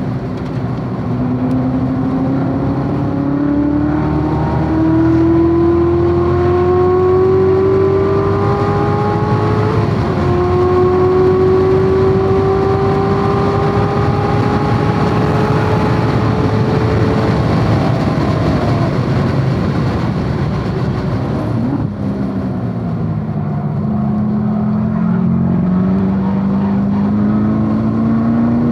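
C7 Corvette Z06's supercharged V8 at full throttle, its note climbing steadily with a gear change about ten seconds in, then climbing on. Roughly 22 seconds in, the note breaks off sharply and falls as the throttle comes off, then climbs again near the end under heavy wind and road noise.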